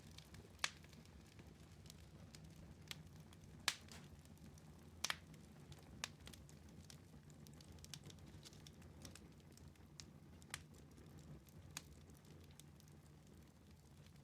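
Wood fire in a fireplace crackling: scattered sharp pops over a faint low rumble, the loudest a little under four seconds in and a quick double pop about five seconds in.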